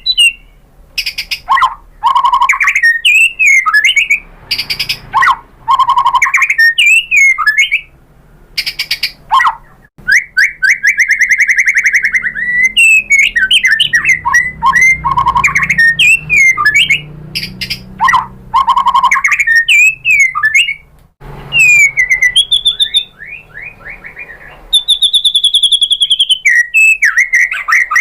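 White-rumped shama singing a loud, varied song: clear whistled phrases that glide in pitch, fast repeated trills and chattering notes, broken by short pauses.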